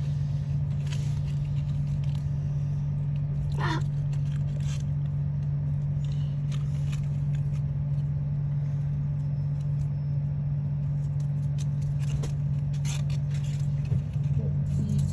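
A steady low hum throughout, with faint scattered clicks and scrapes from handling paper diorama and sticker sheets, and a short rising squeak just under four seconds in.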